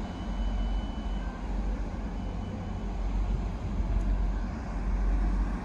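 A train running by with a steady low rumble. A faint thin high tone sounds for about the first second.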